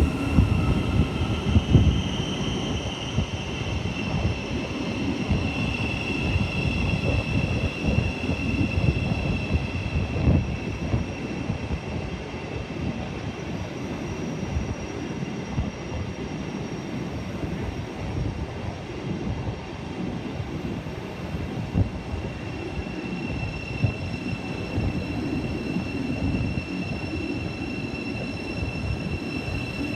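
Electric multiple-unit train at a station platform giving a steady high-pitched whine that fades about halfway through and comes back, over gusty wind buffeting the microphone.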